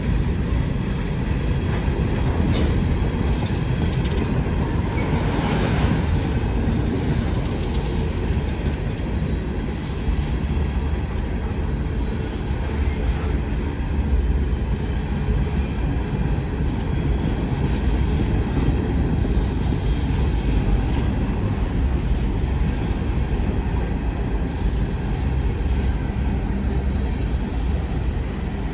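A train passing, its wheels running steadily on the rails with a continuous, even noise throughout.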